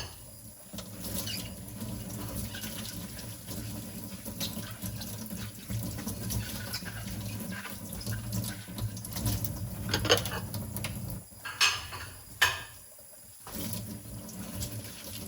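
Tap water running into a kitchen sink during hand dishwashing, the flow breaking off briefly twice in the second half, with a few sharp clinks of dishes.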